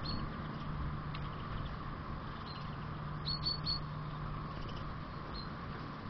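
Small garden birds chirping: a few short high calls, with a quick run of three about three seconds in, over a steady low hum.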